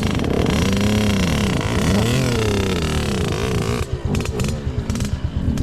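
Dirt bike engine revving up and down, its pitch rising and falling several times.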